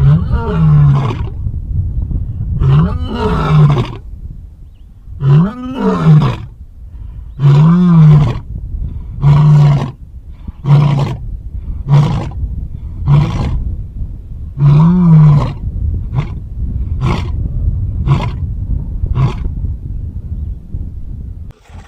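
A big cat roaring in a bout of about a dozen calls. The first few roars are long and rise then fall in pitch, and later ones grow shorter, ending in a run of short grunts about a second apart.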